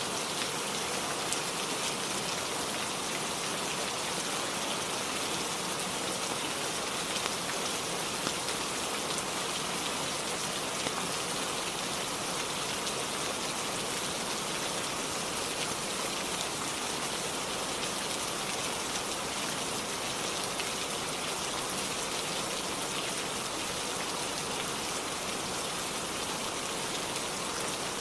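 Steady rain falling on a roof: an even hiss with a few louder drop taps scattered through it.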